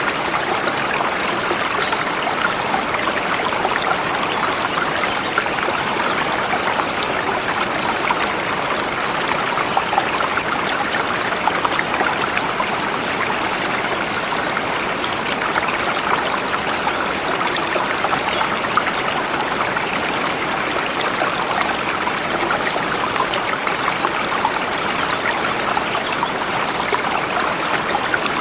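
Forest river flowing over rocks: a steady, unbroken rush of running water.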